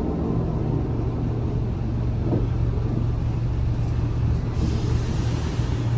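Scania L94UA bus engine idling steadily after its revs have come down, with a hiss of air starting about four and a half seconds in.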